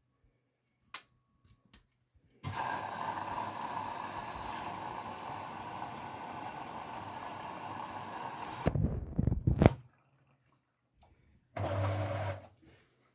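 Grundig washing machine taking in water at the start of its Refresh programme: a steady rush of water for about six seconds that stops with a few low thumps, followed near the end by about a second of low motor hum.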